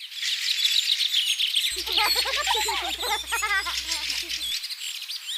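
Many birds chirping and twittering in a dense chorus of high, quick calls. From under two seconds in to about four and a half seconds, a lower, bending voice-like call sounds over them, with a low hum beneath.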